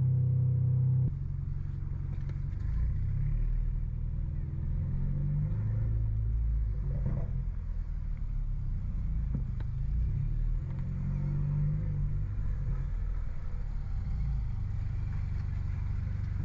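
Stage 2-tuned BMW F30 328i with a downpipe and loud aftermarket exhaust, driven on the road. A steady drone breaks off about a second in. After that, the exhaust note keeps rising and falling with the throttle.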